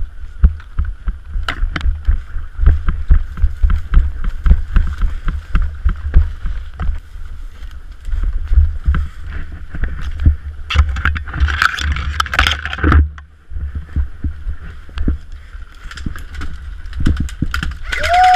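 Irregular low thumping and rustling from a body-worn GoPro Hero 3 as its wearer moves off quickly on foot: footsteps and gear knocking against the camera, with a louder patch of rustling about two thirds of the way through.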